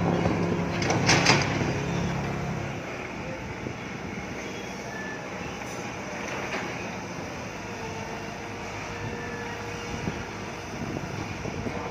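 Steady vehicle noise, an even rumble and hiss, after a pitched sound with clear tones that fades out about two and a half seconds in.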